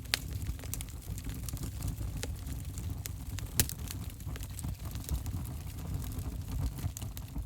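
Wood fire burning in an open fireplace: a steady low rumble of flames with scattered crackles and pops, the sharpest pops right at the start and about three and a half seconds in.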